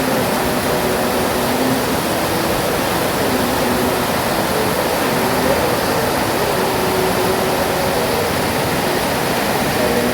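Heavy rain falling in a steady, even hiss, with faint wavering tones underneath.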